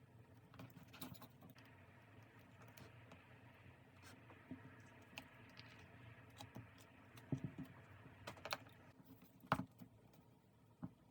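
Faint, scattered small taps and clicks with a soft rustle, typical of stationery being handled on a desk, with a couple of sharper knocks about 7 and 9.5 seconds in.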